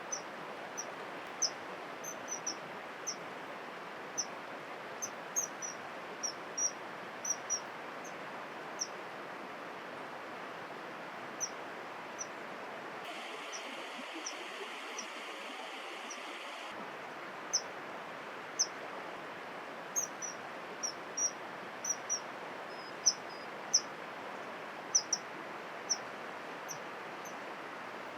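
Small birds giving short, high chirps at irregular intervals over a steady outdoor hiss, with a lull in the calling midway.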